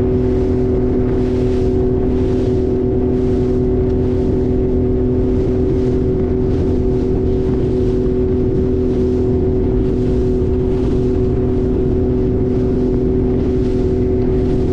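Speedboat motor running at a steady speed: a low rumble with a constant hum, and a hiss that swells and fades about once a second.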